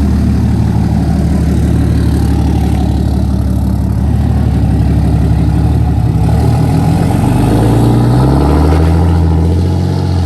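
Diesel pickup truck engine running steadily, its pitch rising about seven seconds in and holding a little higher near the end.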